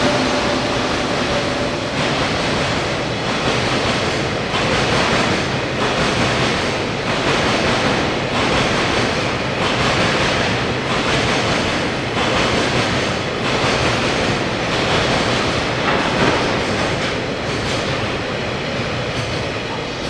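Freight train of container wagons rolling past, steel wheels running on the rails with a steady clatter as the wheelsets cross rail joints, a knock about every second and a quarter.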